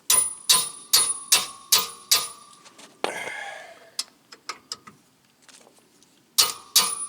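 Steel wrench working a seized rear hub bearing bolt: a regular run of sharp, ringing metallic clicks, about two and a half a second, then a scrape and a few scattered clicks, and the regular clicks again near the end.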